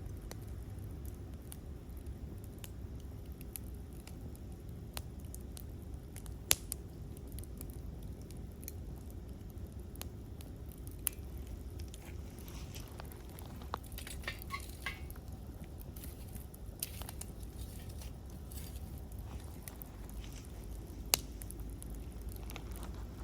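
Wood campfire crackling: scattered small ticks and a few sharp pops over a steady low rumble, with a busier patch of crackling around the middle.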